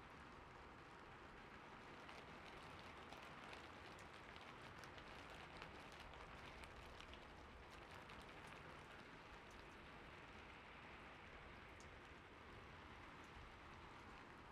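Steady, soft rain hiss, with faint scattered clicks of keyboard typing, thickest through the first half.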